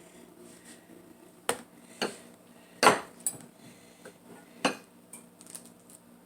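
Dishes and utensils clinking and knocking: several separate sharp clinks, the loudest about three seconds in.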